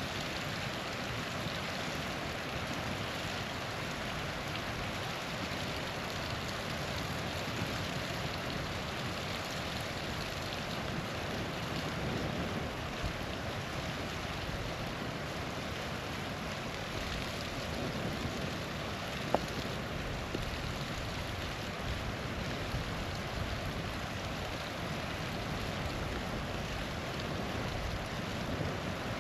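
Small waterfall rushing steadily, with a campfire burning beside it. The fire gives a single sharp crack about two-thirds of the way through and a few faint ticks.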